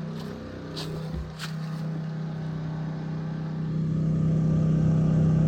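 Champion 3400-watt dual-fuel inverter generator running steadily under heavy load (about 2700 W from a space heater and a heat gun) on propane, in regular rather than economy mode: a steady engine hum that grows louder about two-thirds of the way through. A few faint knocks in the first two seconds.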